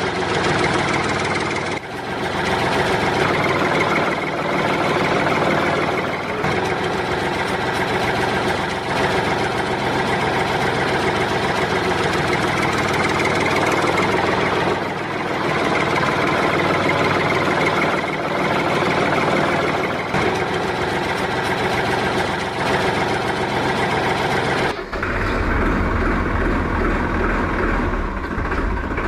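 Heavy vehicle engine running steadily, like a truck or digger at work. About 25 seconds in, it changes to a deeper, throbbing idle.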